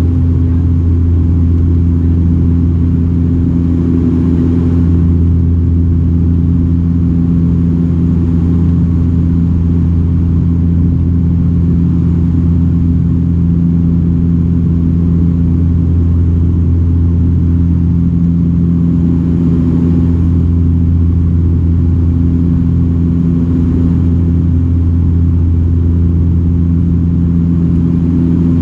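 Steady cabin drone of a Dash 8-402 (Q400) turboprop airliner in flight. The two turboprop engines and their propellers make a constant low hum with a few steady tones, over a rush of airflow.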